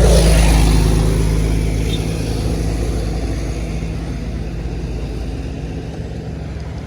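Intercity bus driving past close by, its diesel engine loudest at the start and fading steadily as it pulls away.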